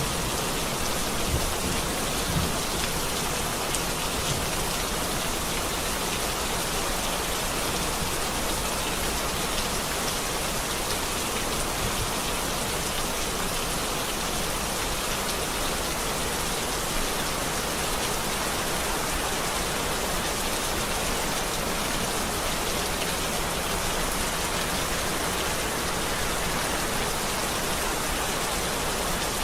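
Steady rain falling: an even, unbroken hiss of drops with no change in strength.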